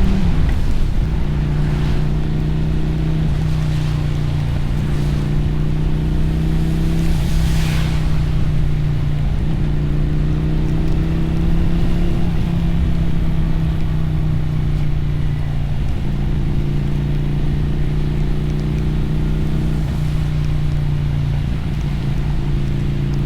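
Motorcycle engine running at riding speed, its pitch dropping and climbing again several times as the throttle and gears change, over wind and wet-road tyre hiss. A brief hiss rises and falls about seven and a half seconds in.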